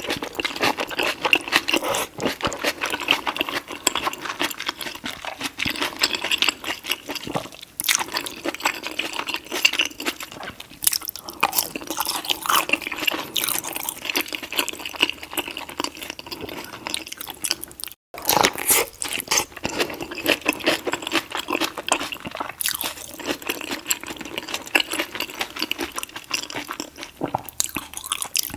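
Close-miked chewing and wet, smacking mouth sounds of someone eating deshelled seafood-boil meat, dense and irregular, with a brief drop-out about eighteen seconds in.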